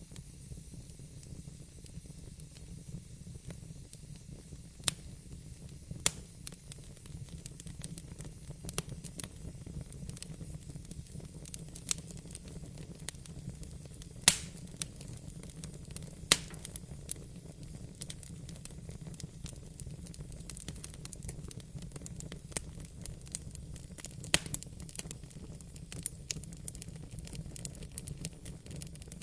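Wood fire crackling in a fireplace: a steady low rumble of burning with irregular sharp pops and snaps, a few of them much louder than the rest.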